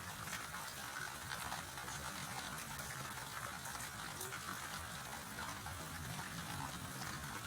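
Steady rain falling: an even hiss of many small drops pattering, with no thunder.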